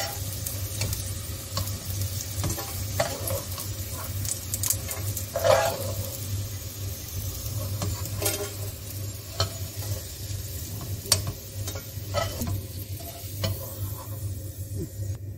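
Bitter gourd rings shallow-frying in oil in a nonstick wok, a steady sizzle, while a metal spoon clinks and scrapes against the pan and a steel plate as the fried rings are lifted out. A steady low hum runs beneath, and the sizzle thins out near the end.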